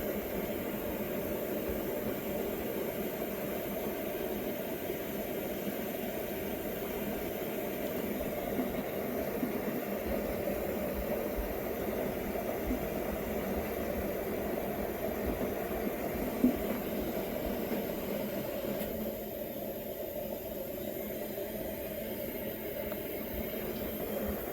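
Washing machine filling, with water running steadily into the drum through the dispenser. The flow eases a little about three-quarters of the way through.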